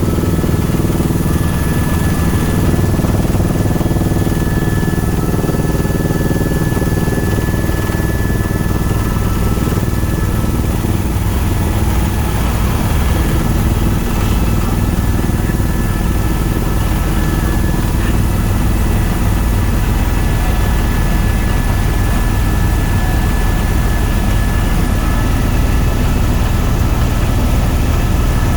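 Tour helicopter's engine and rotors running steadily in flight, heard from inside the cabin as a constant loud drone with a low rumble and a faint steady whine above it.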